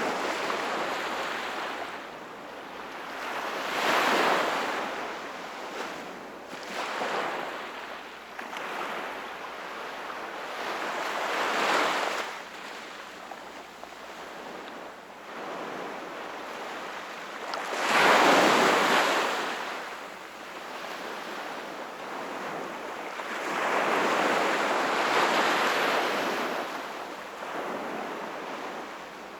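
Sea waves breaking on the shore and washing back, a wave about every six to eight seconds, the biggest about two-thirds of the way through.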